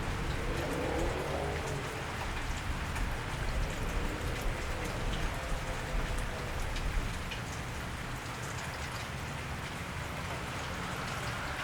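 Steady rain falling on a wet street: an even hiss with many small drop and drip clicks over a low rumble.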